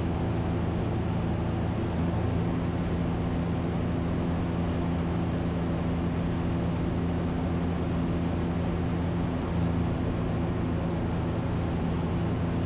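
Ikarus C42 light aircraft's engine and propeller droning steadily in cruise, heard from inside the cockpit as an even, unchanging hum.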